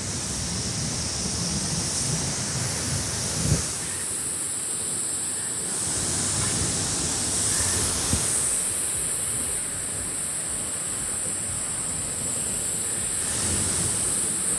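Steady, loud rush of a waterfall heard close up, with a brief knock about three and a half seconds in.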